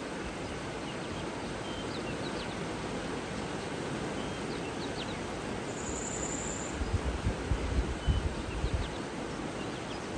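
Outdoor nature ambience: a steady rushing hiss with faint, scattered bird chirps, and one brief high, thin whistle about six seconds in. Gusts of wind rumble on the microphone in the second half.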